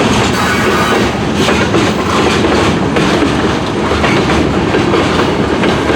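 Canadian National mixed freight train rolling past in a loud, steady rush, its steel wheels clattering on the rails.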